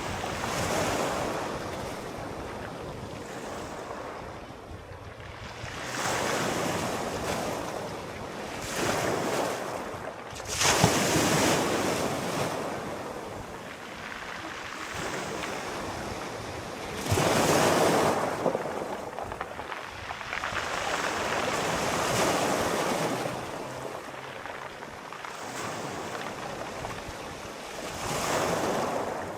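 Sea waves breaking and washing ashore in repeated surges every few seconds, the strongest about a third and three fifths of the way through.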